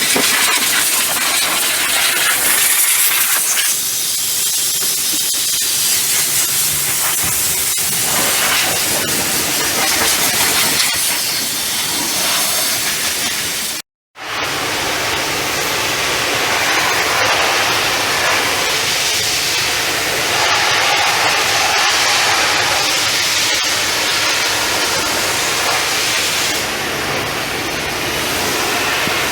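High-pressure water spray hissing steadily against the truck, with a momentary dropout about fourteen seconds in.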